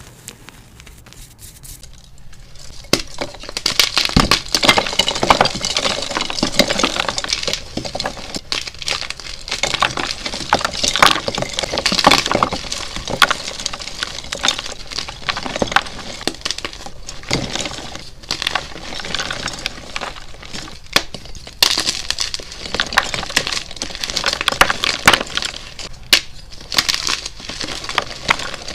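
Dyed gym chalk being crushed, a dense run of crunching and crackling that starts after a quiet couple of seconds and goes on in uneven waves.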